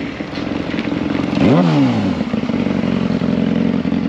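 Vehicle engine idling, with one quick throttle blip about a second and a half in that rises and falls back to idle.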